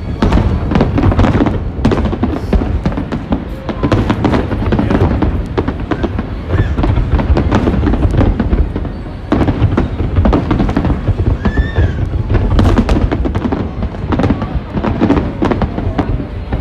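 Fireworks display going off continuously: a rapid, dense run of bangs and crackles from many shells bursting together over a low rumble, with a brief lull about nine seconds in.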